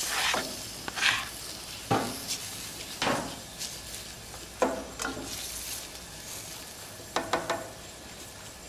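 Minced lobster sizzling in butter in a hot stainless-steel skillet as it is scraped in off a plastic cutting board, then stirred with a plastic spatula. A steady frying hiss runs under a series of sharp clacks and scrapes of the spatula against the pan, with a quick cluster of them near the end.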